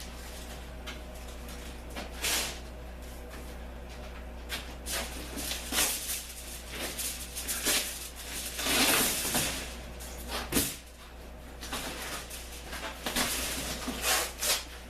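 Cardboard and tin-foil panels being handled and pulled apart: scattered rustling, scraping and knocks, with a longer scraping rustle about nine seconds in and a sharp knock just after. A steady low hum runs underneath.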